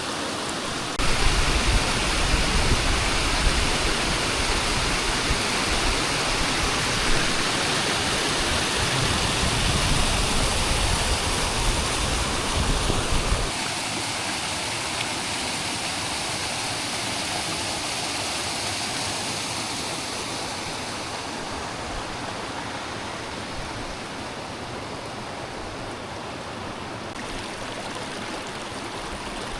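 Steady rush of a waterfall and its stream. For the first half a heavy low rumble lies under it, stopping abruptly about thirteen seconds in; the water then carries on a little quieter.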